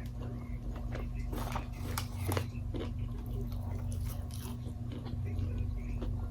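A person chewing and biting Wingstop food close to the microphone: irregular short bites and mouth clicks with a steady low hum underneath.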